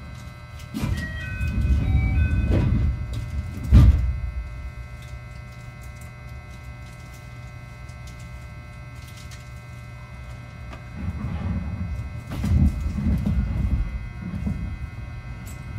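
Interior of a JR 221 series electric train's motor car standing at the platform with its air conditioning off: a steady low hum, a few short electronic chime notes about a second in, and a sharp loud thump near four seconds. From about eleven seconds in, a low uneven rumble sets in as the train starts to move.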